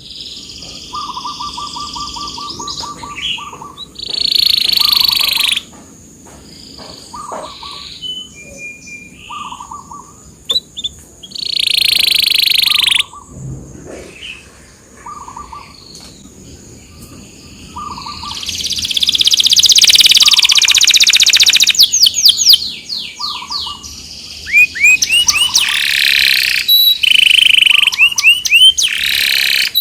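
Domestic canary singing: loud high-pitched bursts, a long fast roll, and towards the end many rapid rising notes. The song is played as a "pancingan", a recording meant to prompt other canaries to sing along.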